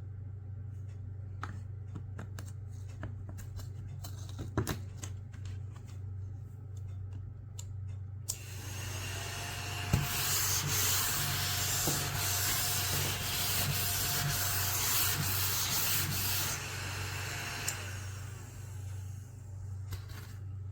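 Small cordless desktop vacuum cleaner running, its bristles brushing across a surface for about ten seconds in the middle, with a faint steady motor whine. Before it come scattered light taps and clicks.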